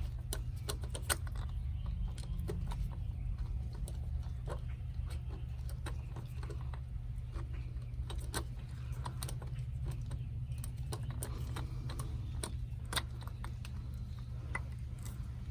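Scattered small metal clicks and taps as a screwdriver drives the handle screw into a Woodford Model 24 hose faucet and the handle is worked, over a steady low hum.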